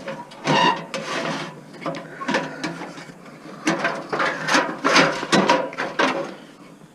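A long load being worked into the back of a van: irregular scraping, rattling and knocks as it is pushed and shifted against the van's interior.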